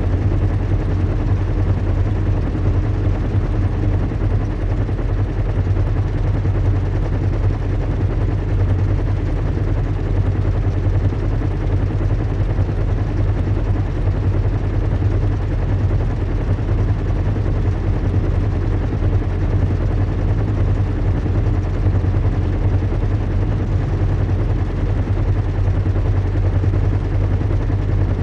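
Recreated engine drone of a zeppelin airship in flight: a steady low hum with a fast, even throb that does not change.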